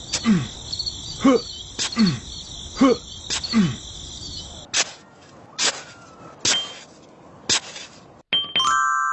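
Cricket-like chirping with falling tones repeating about once a second. Then several sharp clicks, and a bell-like chime that rings out and fades near the end.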